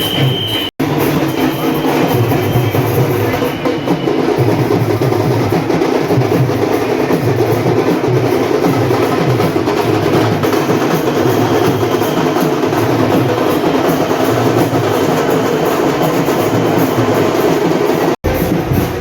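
Dhol and tasha drums pounding a dense, continuous rhythm. The sound cuts out for an instant about a second in and again near the end.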